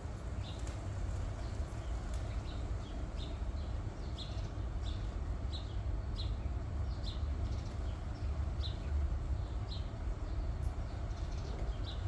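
Outdoor ambience: a small bird chirping over and over, short high chirps a little more than once a second, over a steady low rumble.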